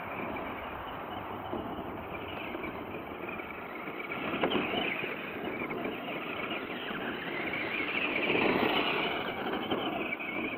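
Traxxas Ford Raptor SVT radio-controlled truck drifting through driveway gravel: its tyres churning and scattering loose rocks, with louder surges about four and a half seconds in and again around eight to nine seconds.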